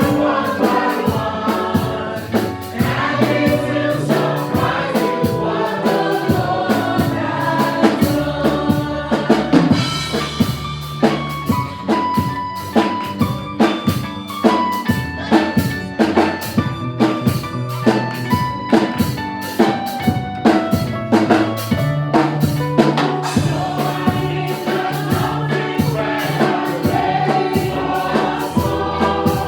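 Gospel praise-and-worship music: a choir singing over keyboard, bass and a drum kit keeping a steady beat. In the middle the voices drop back and the band plays on before the singing returns.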